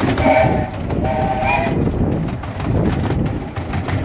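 Small-gauge railway train running, a steady rumble from the carriages on the track, with two short toots from the locomotive about a second apart near the start.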